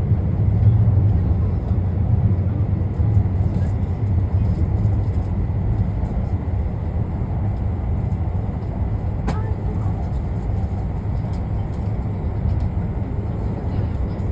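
Cabin noise of an E2 series Shinkansen train under way: a steady low rumble from the running gear, with one sharp click about nine seconds in.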